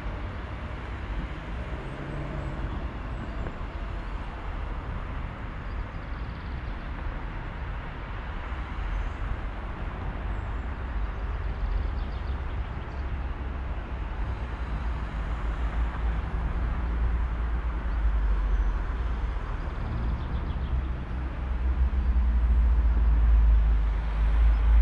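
Steady outdoor noise at a railway platform: a distant train pulling away, with a deep rumble that grows louder over the last few seconds.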